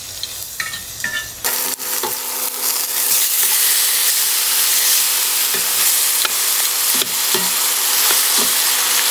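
Steak and vegetables frying in butter in a skillet on a portable electric hot plate, a dense sizzle that jumps up loud about a second and a half in. A steady low hum runs under it, and there are a few light knocks.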